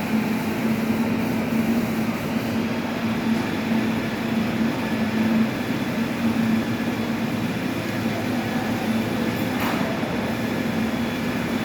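Heavy sawmill machinery running steadily: a continuous mechanical drone with a constant low hum.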